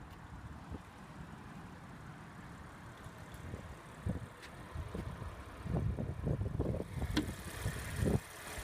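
Car hood being released and raised: a series of knocks and thumps begins about four seconds in, with a sharp click near the end, over a low steady rumble.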